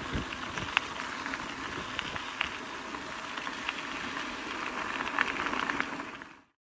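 E-bike tyres rolling over a gravel forest trail: a steady crunch and crackle of small stones. It cuts off suddenly near the end.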